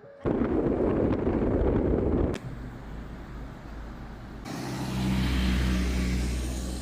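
Motor vehicle engine running. It opens with a loud rushing noise that stops abruptly after about two seconds, then comes a lower steady engine hum that grows louder about four and a half seconds in.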